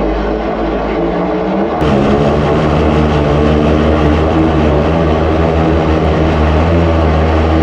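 Drain jetting machine's engine running steadily under load, pumping high-pressure water through the jetting hose; it gets a little louder about two seconds in.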